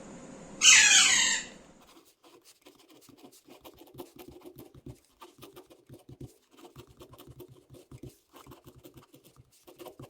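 A parrot gives one loud call that falls in pitch about a second in, then its beak crunches and clicks on food in small, irregular crackles.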